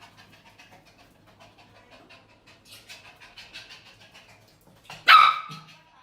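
A dog barks once, loud and short, near the end, after several seconds of faint sound.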